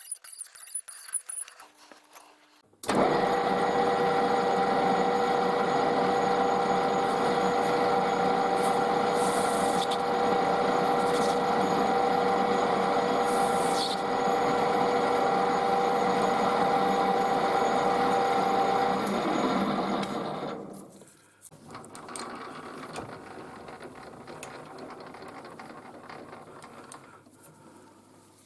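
A workshop power tool is switched on and runs at a steady pitch for about seventeen seconds, then is switched off and winds down. A quieter noise follows as it fades.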